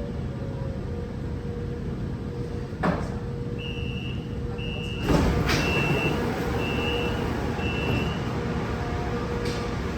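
Metro train door-closing warning: five high beeps about one a second, with the sliding doors starting to move with a louder thud about halfway through. A steady hum from the standing electric train lies underneath.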